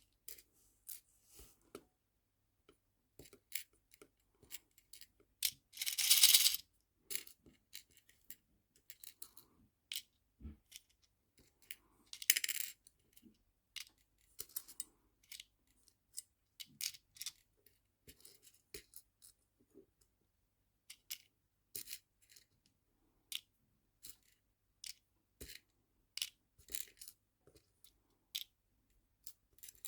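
Tiny nail-art charms clicking and tapping as they are picked up and dropped into small storage boxes, in many short scattered clicks. Two louder rattles of charms, each about half a second long, come about six and twelve seconds in.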